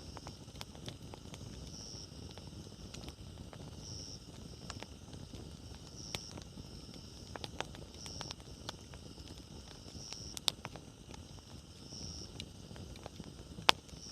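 Wood campfire burning: a steady low rustle of flames with scattered crackles and two sharper pops, the louder one near the end. A high chirp, likely an insect, repeats about every two seconds.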